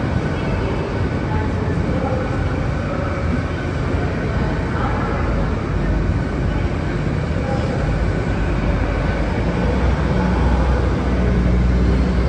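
TransPennine Express Class 802 bi-mode train running slowly along the platform: a steady hum and wheel rumble. A deeper rumble builds near the end.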